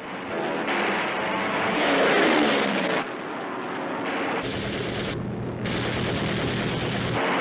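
Battle sound effects: rapid machine-gun fire mixed with aircraft noise, with a falling whine from about one to three seconds in. The mix changes abruptly about three seconds in.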